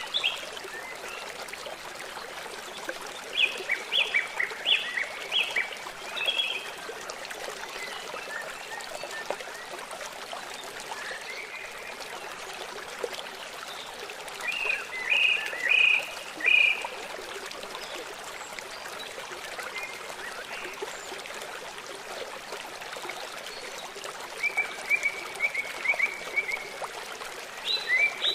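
River water flowing steadily, with a bird singing short phrases of quick repeated chirps that come back every several seconds.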